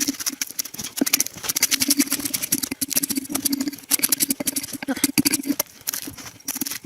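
Bark being scraped and chipped off a log with a hand tool: rapid, uneven scraping strokes over a low hum that comes and goes.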